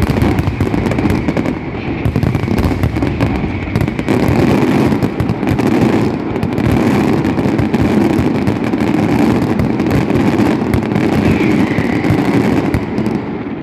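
Fireworks going off in a dense, continuous barrage of bangs and crackles, so closely packed that they merge into one steady rumble with no pauses.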